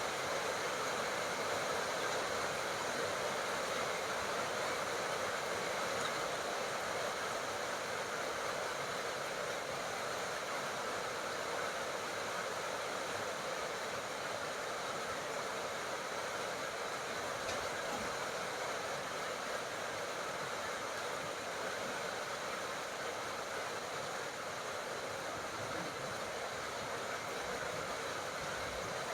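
Steady tropical rain: an even, continuous hiss with no separate drops, thunder or other events standing out.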